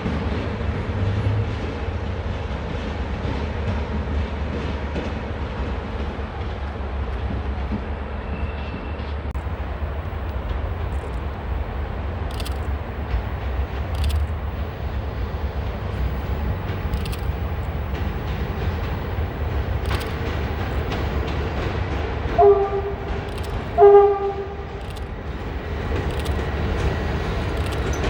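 Train rumbling steadily in a station, with scattered sharp clicks midway and, near the end, two short blasts of a locomotive horn, the second a little longer.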